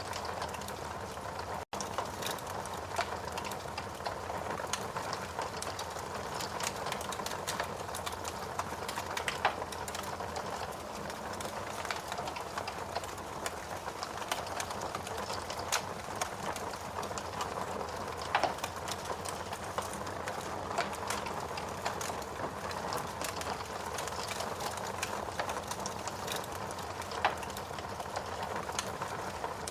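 Steady rain hiss mixed with a wood fire crackling, with irregular sharp pops and snaps scattered throughout. A split-second dropout about two seconds in.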